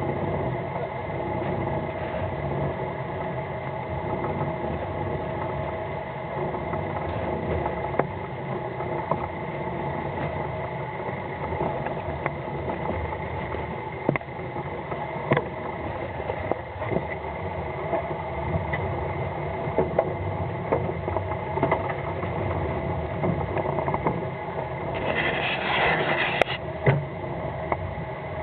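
A fishing boat's engine running steadily, with scattered knocks through it and a short burst of hiss near the end.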